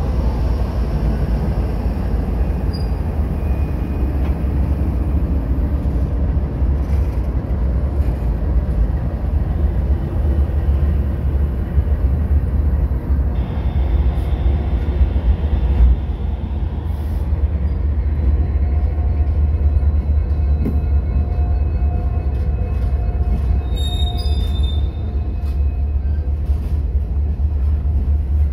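Freight train passing close by: diesel locomotives, including an EMD SD70MAC, rumble steadily past, then loaded tank cars roll by on steel wheels. A light wheel squeal rises in the second half.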